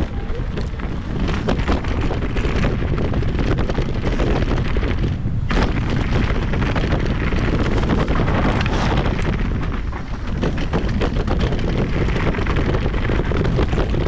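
Wind buffeting an action camera's microphone during a fast e-mountain-bike trail descent, with tyres on dirt and the bike rattling and knocking over rough ground.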